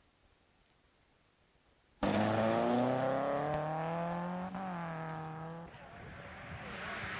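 A car engine accelerating hard, its pitch climbing steadily and then holding. It starts abruptly about two seconds in and cuts away suddenly near the end to a fainter noise.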